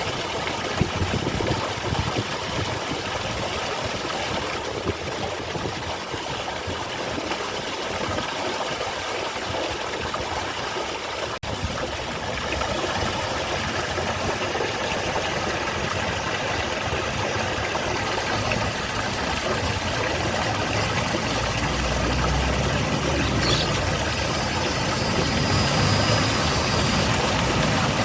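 Garden waterfall: water pouring steadily with an even rushing noise, broken for an instant about eleven seconds in, with a low rumble underneath in the second half.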